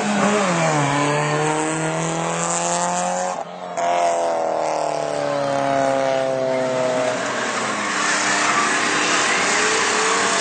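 Car engines running hard down a drag strip. One engine's pitch drops sharply at a gear shift about half a second in, then climbs as it accelerates. After a brief dropout about a third of the way in, engine pitch falls slowly as the cars ease off, and near the end it turns noisier with a rising tone.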